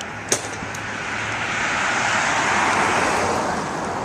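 A road vehicle passing, its noise swelling to a peak and then fading, with a single sharp click near the start.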